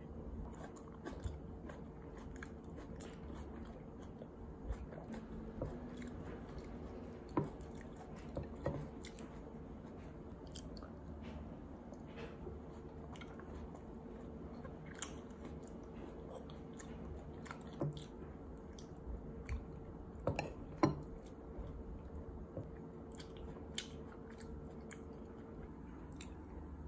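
Chewing and biting while eating burrata and tomatoes, with scattered light clicks of a metal fork and knife against a glass plate, the loudest about a third of the way in and again about three quarters through. A faint steady hum lies underneath.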